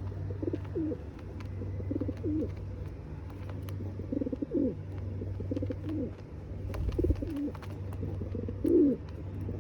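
Pigeon cooing, short low coos repeating about once a second over a steady low hum.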